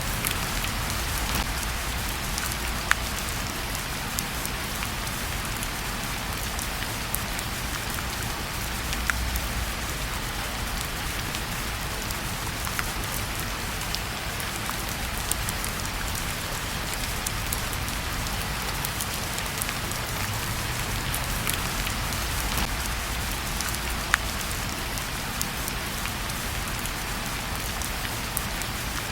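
Steady rain falling, a dense even hiss over a low rumble, with a few sharp pops from a crackling wood fire scattered through it.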